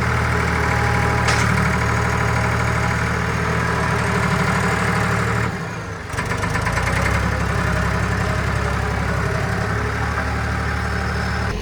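Farm tractor engine idling steadily after being started, warming up. About halfway through the sound briefly dips, then it runs on at a slightly different pitch.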